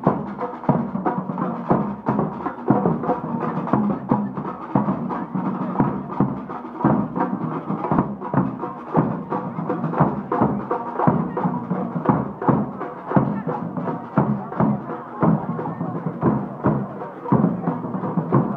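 Marching band drums beating a steady march rhythm, with the band playing along.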